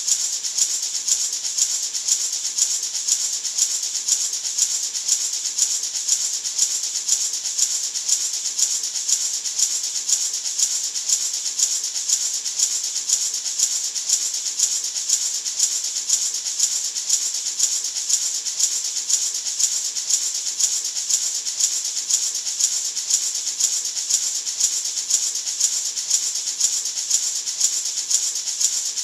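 Gourd maraca shaken steadily in an even, unbroken rhythm, its rattle a bright hiss.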